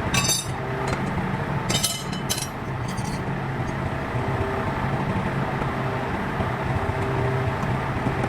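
An engine running steadily at idle, with a few sharp metallic clinks of tools or parts in the first three seconds.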